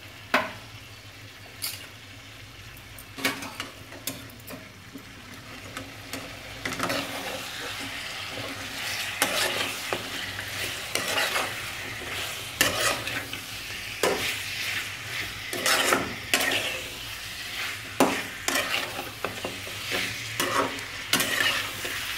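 Spiced raw chicken pieces frying in oil in a kadai, sizzling, while a steel spatula stirs them, scraping and clinking against the pan. The sizzle is faint with a few spatula knocks at first and grows louder about six seconds in, with stirring strokes coming every second or so.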